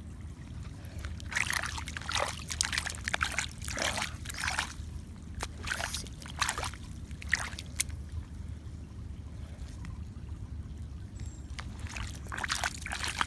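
Floodwater trickling and sloshing into a catch basin drain, with irregular splashes that are busiest over the first half and pick up again near the end, over a steady low rumble.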